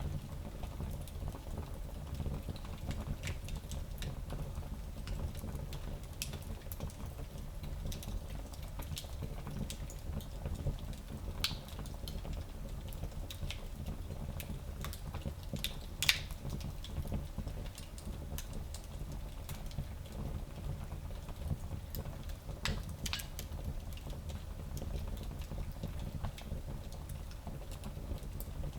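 Fire burning in a small fireplace: a steady low rumble of flames with scattered sharp crackles and pops, the loudest pop about halfway through.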